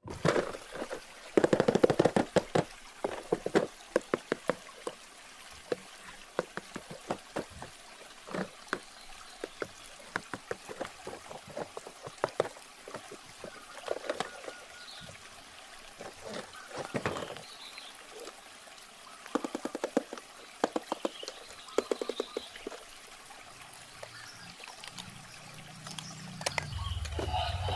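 Water trickling and pouring, mixed with many scattered sharp clicks and crackles of a toy being unboxed. A low hum comes in near the end.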